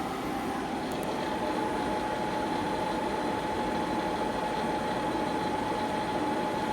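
Live-tooling spindle of a 2014 Okuma Genos L300E-MY CNC lathe running at a set speed. It is a steady mechanical whine with one clear tone over a machine hum.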